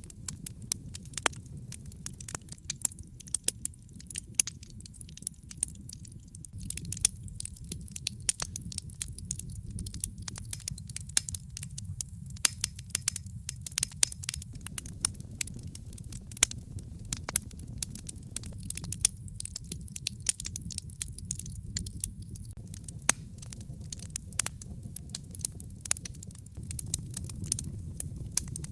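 Wood fire crackling and popping, with sharp irregular snaps over a steady low rumble of flames.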